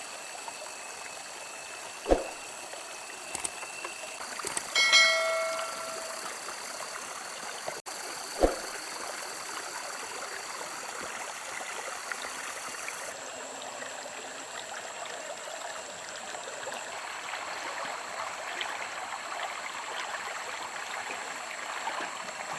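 Steady running water, with two sharp knocks and a brief ringing tone a little under five seconds in.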